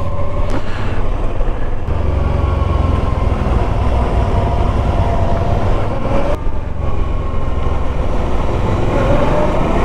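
Motorcycle engine running under way, its pitch sinking through the middle and rising again near the end as the throttle changes. Heavy wind rumble on the microphone sits underneath it.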